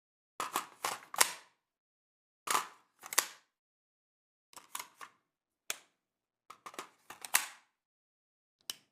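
A series of sharp clicks, about fifteen in all, some in quick groups of two to four, with dead silence between them.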